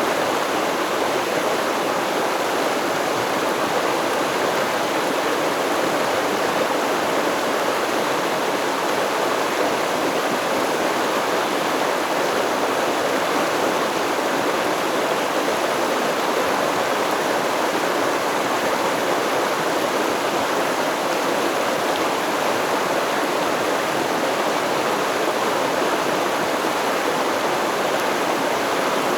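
A river stream running steadily: an even, unbroken rush of flowing water.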